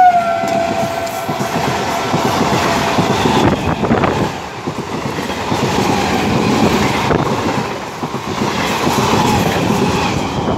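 Electric multiple unit (EMU) passenger train passing close by: its horn drops in pitch at the very start, then the coaches run past with a steady rumble and clickety-clack of wheels over the rail joints.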